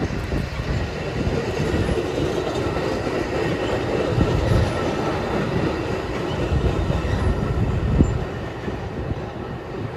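A train passing close by: a steady loud noise of steel wheels running over the rails, with a sharp knock about eight seconds in, after which it grows quieter.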